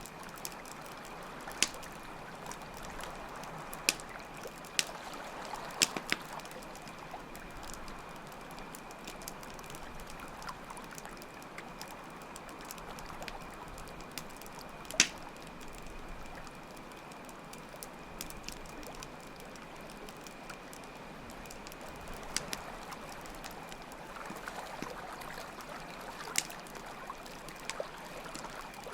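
Campfire crackling, with sharp irregular pops scattered through, over a steady flow of water and a continuous high cricket trill.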